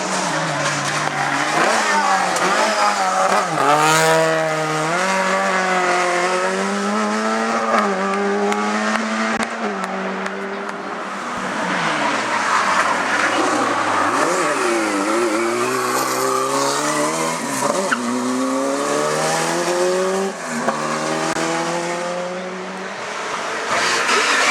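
Racing car engines at full throttle on a hillclimb, revving hard and climbing in pitch, with quick upshifts that drop the revs before each climb starts again. This happens in two runs, with a short lull between them about halfway through.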